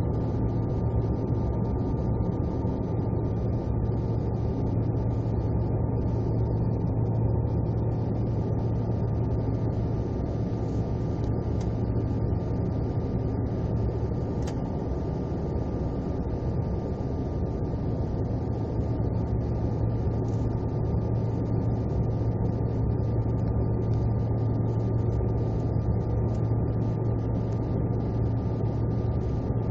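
Steady drone of an aircraft in flight: a constant low engine hum with a thin steady whistling tone above it.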